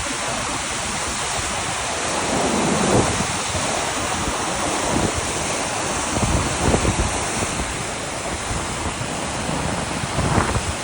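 Rushing roar of swollen floodwater pouring through canal locks. Gusts of wind buffet the microphone, with stronger gusts near the end.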